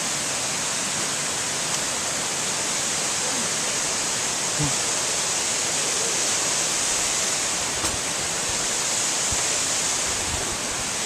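Steady rushing water: an even, unbroken hiss that stays level throughout.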